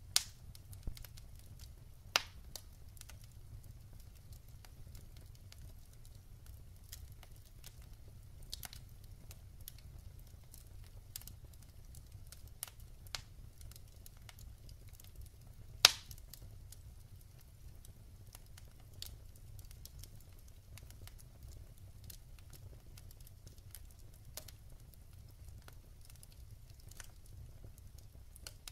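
Wood fire burning in a fireplace: scattered crackles over a low steady rumble, with a few sharp pops from the burning logs, the loudest about sixteen seconds in.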